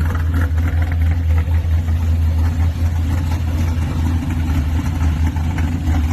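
Truck engine idling with a steady, deep rumble, with no revving.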